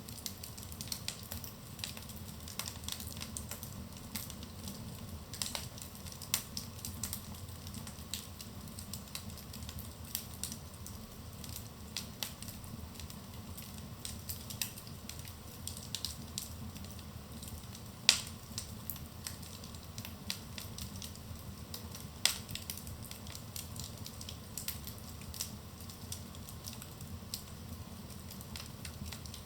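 Wood fire burning in a fireplace: a steady low rumble of flames with constant small crackles and two louder pops, about eighteen and twenty-two seconds in.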